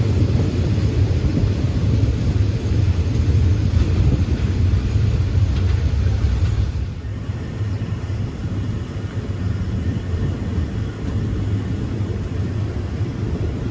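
Passenger train running along the track, heard from on board: a steady low rumble of wheels and running gear with wind hiss. About halfway through the hiss drops away and the rumble eases slightly.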